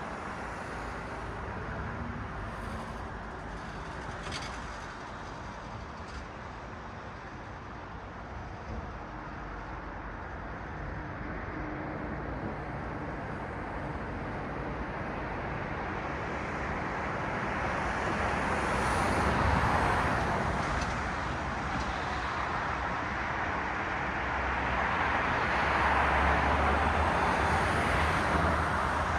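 Cars passing on a city street: a steady traffic hiss of tyres and engines that swells as a vehicle goes by about two-thirds of the way through, and again near the end.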